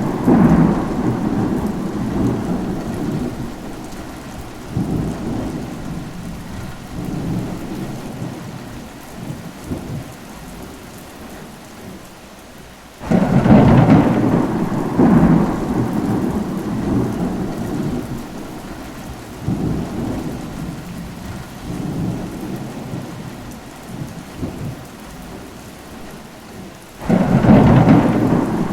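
Steady rain with rolling thunder. It opens in the tail of one rumble; a new thunderclap breaks about halfway through and rumbles away over several seconds, and another starts near the end.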